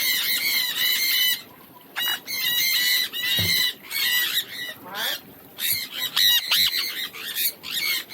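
Small birds chattering and squawking in quick, harsh calls, with two brief lulls.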